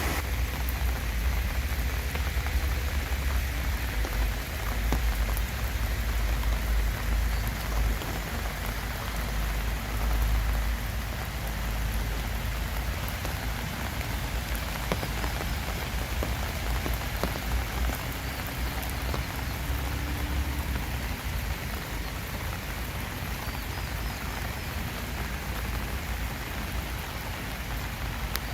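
Steady rain falling: an even hiss with scattered ticks of single drops, over a low rumble that eases off after about twenty seconds.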